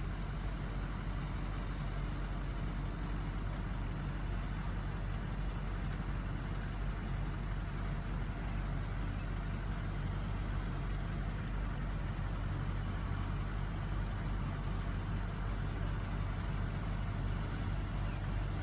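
Vehicle engine running steadily, a low even hum that holds the same pitch throughout.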